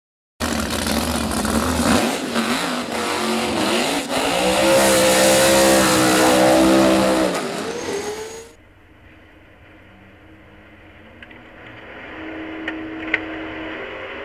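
A 400-cubic-inch Chevrolet V8 in a drag-racing Honda, heard from onboard, running loud and revving up during a tyre-smoking burnout. About two-thirds of the way through it drops abruptly to a much quieter low idle. A couple of sharp clicks come near the end.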